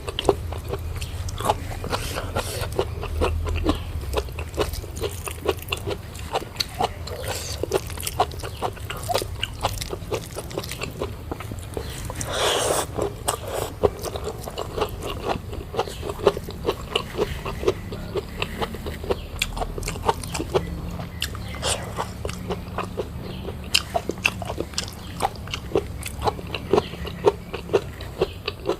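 Close-miked mouth sounds of a person eating: chewing and lip smacks as many small clicks, with one longer, louder noise about twelve seconds in. A steady low hum runs underneath.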